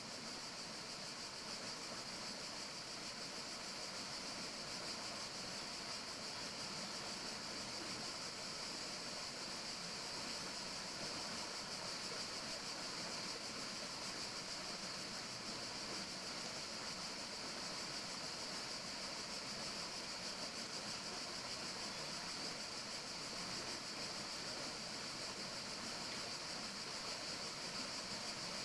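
Steady forest ambience: an even, unbroken hiss of water or wind, with a constant high-pitched band on top.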